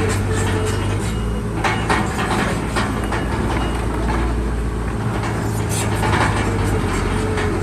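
Heavy diesel earth-moving machine, most likely the bulldozer, running steadily with a deep engine hum and scattered metallic clanks and squeaks.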